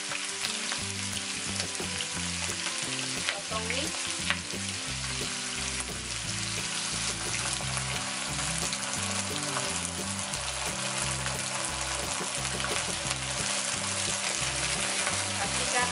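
Squid, onions and dried chillies stir-frying over high heat in a nonstick pan: steady sizzling with a wooden spatula stirring and scraping, a few light clicks, while cornstarch slurry thickens the sauce.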